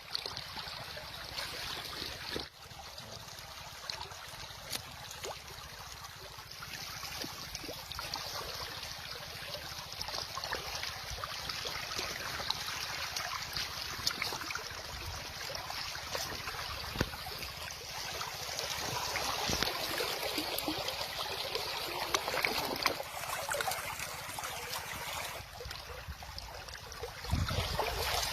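River water flowing, a steady rush dotted with small splashes and trickles, with a brief dip about two and a half seconds in and a few low bumps near the end.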